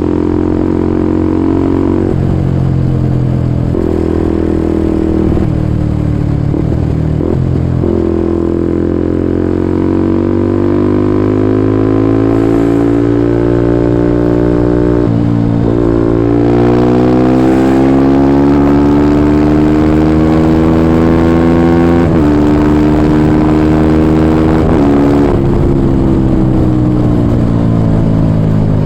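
Kawasaki Ninja 250SL single-cylinder engine through a KEA Speed NA1 aftermarket exhaust, ridden under throttle. The engine pitch climbs steadily, then drops back at gear changes, three or four times.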